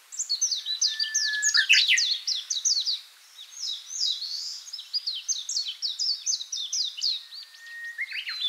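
Songbirds singing: a rapid run of short, high, falling chirps, with a long steady whistled note about a second in and another near the end.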